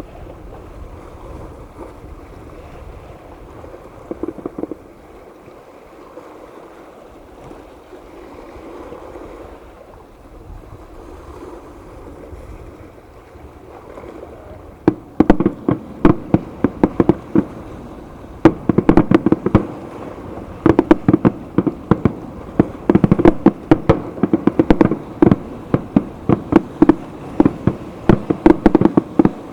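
Fireworks: a few pops about four seconds in over a steady background hiss, then from about halfway a rapid, dense barrage of sharp crackling bangs that keeps going to the end.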